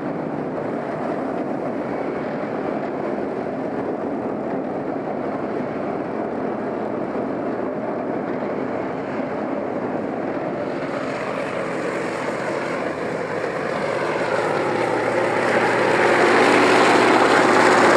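T-72M1 tank's V12 diesel engine running steadily. It grows louder from about eleven seconds in and holds at its loudest near the end.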